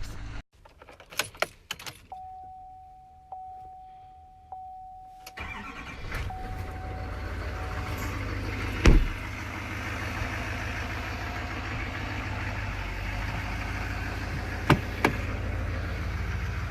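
A steady electronic tone sounds for about three seconds. Then a 2019 Chevy Silverado 2500 HD's L5P 6.6-litre Duramax turbodiesel V8 is cold-started: it fires about five seconds in and settles into a steady idle, with a few sharp clicks over it.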